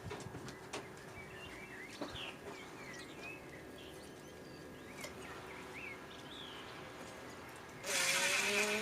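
Birds chirping in the background, with a few light knocks and clicks of handling. Near the end a power drill starts running, loud and much louder than everything before it.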